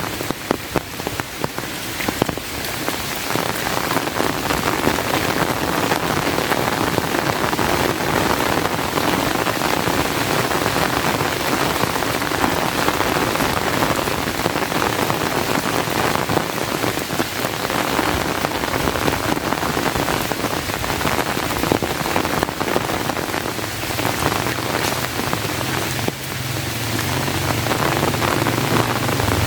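Steady heavy rain falling. A motor vehicle's engine comes in as a low hum near the end, getting louder.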